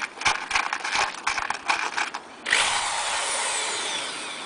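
Clicks and knocks of handling, then an electric drill starts suddenly about halfway through and runs, its pitch sliding down and the sound fading slowly as it slows. It is a drill with no speed control.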